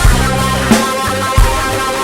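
Rock band playing an instrumental passage: drum kit keeping a steady beat with a hit about every two-thirds of a second, under held bass notes and guitar.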